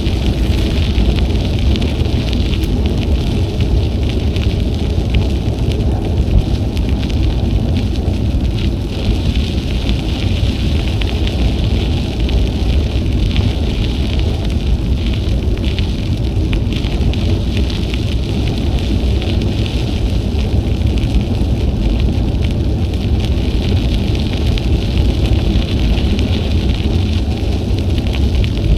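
Steady wind rumble buffeting the action camera's microphone while cycling, over a continuous hiss of bicycle tyres rolling on the trail.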